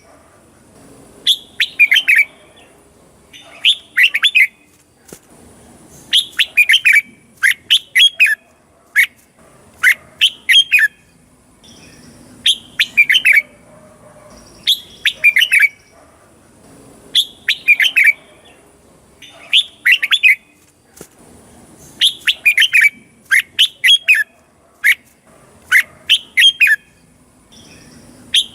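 Red-whiskered bulbul singing short, quick phrases of whistled notes, one phrase about every two seconds.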